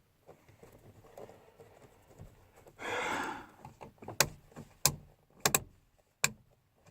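Handling sounds in a truck cab: a short scraping rustle about three seconds in, then a run of sharp clicks roughly every two thirds of a second.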